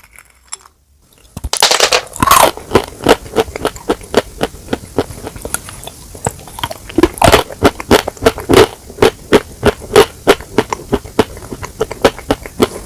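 Close-miked eating of chicken: a bite about a second and a half in, then rapid, irregular crunching and chewing.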